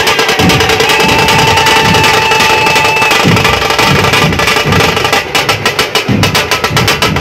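Dhol-tasha drumming: fast, continuous tasha strokes over deep, regular dhol beats. A held high tone sounds over the drums for about two seconds near the start.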